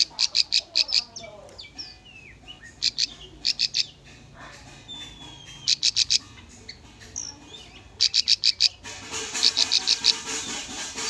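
Bar-winged prinia (ciblek) song: runs of about five to eight rapid, high, sharp chips, repeated every second or so, with short whistled glides between the runs.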